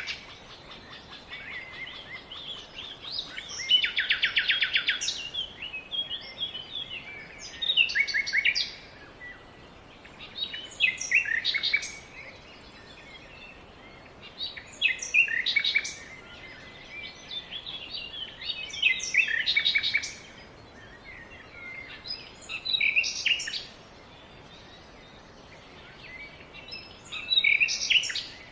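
Songbird singing, repeating a short, quick song phrase about every four seconds; one phrase about four seconds in is a fast, even trill.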